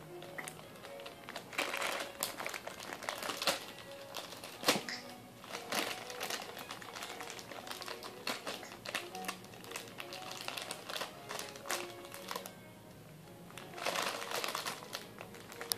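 Soft plastic diaper wipes packet crinkling irregularly as it is squeezed and handled, loudest about two, five and fourteen seconds in.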